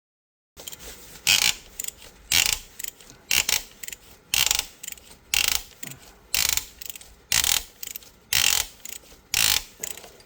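A ratchet wrench worked in steady strokes, about one loud clicking stroke a second with lighter clicks between, nine strokes in all. It starts just after a brief cut to silence.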